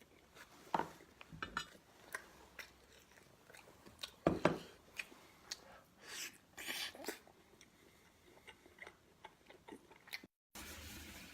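A person biting and chewing food close to the microphone, with scattered short crunches and wet clicks; the loudest comes a little over four seconds in. After a sudden cut near the end, a steady low hum.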